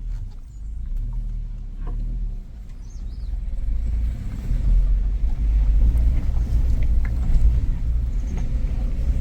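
Suzuki Jimny driving over a rough, rocky dirt track: a low engine and road rumble that grows louder about four seconds in.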